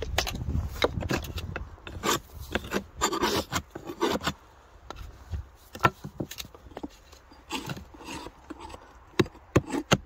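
Irregular scraping and rubbing on the wood of a beehive, with scattered knocks and sharp clicks and a quick run of clicks near the end: a beekeeper clearing ice and dead bees out of a blocked hive entrance.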